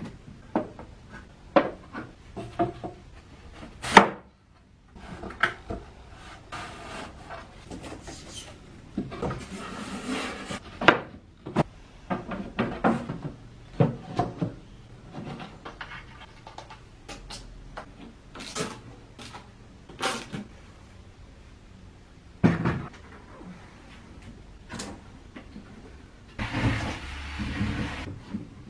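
Irregular knocks, taps and clicks with a few longer stretches of rubbing or scraping, from chrome flat-pack furniture parts being handled and fitted together during assembly.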